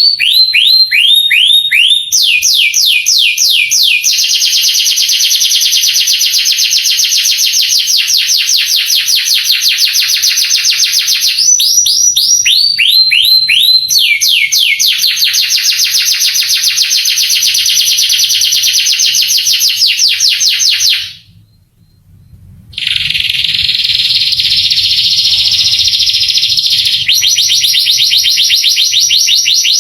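Male domestic canary singing a long song of fast trills: rolls of rapidly repeated sweeping notes that switch to a new phrase every few seconds. The song breaks off for about a second and a half about two-thirds of the way through, then resumes.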